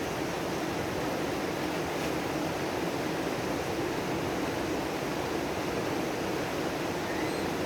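Steady rush of running water in a koi pond, with a faint bird chirp near the end.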